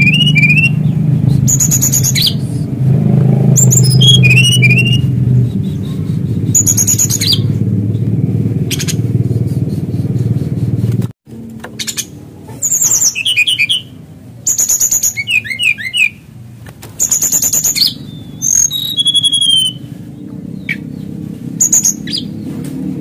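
Male brown-chested jungle flycatcher calling in short repeated phrases of high clear notes and quick falling chirps, a phrase every second or two. A steady low hum lies under the first half and cuts off abruptly about halfway through.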